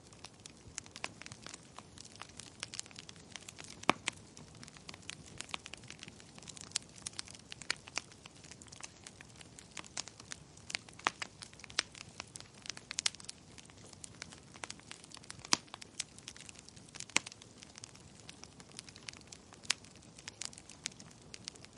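Wood fire crackling in a fireplace: irregular sharp pops and snaps over a soft, steady hiss, with a louder pop about four seconds in and a few more later.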